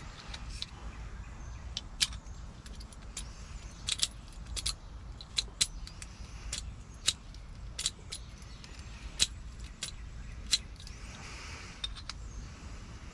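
Small metal clicks and clinks of lock pins and tools as a lock cylinder is repinned during a rekey, coming irregularly about once or twice a second, over a low steady rumble.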